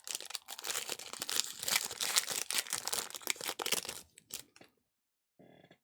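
Basketball trading-card pack wrapper being torn open and crinkled, a dense rustling crackle that stops about four seconds in.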